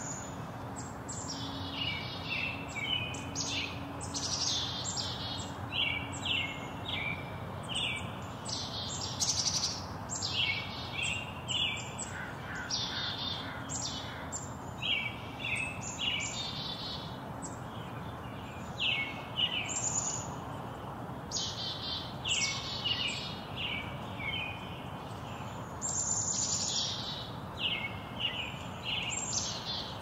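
Small songbirds chirping and twittering in quick, repeated short calls throughout, over a steady low background noise.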